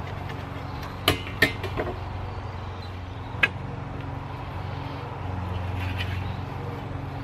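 A few sharp knocks of steel pieces being handled, some with a short ring, over a steady low hum.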